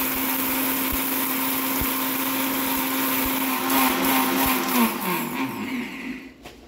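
Vidiem Vision Blue 650-watt mixer grinder running at full speed, grinding whole spices into garam masala powder: a steady motor hum with a dense grinding noise and scattered knocks from spice pieces in the jar. About five seconds in it is switched off, and the motor winds down with a falling pitch and stops.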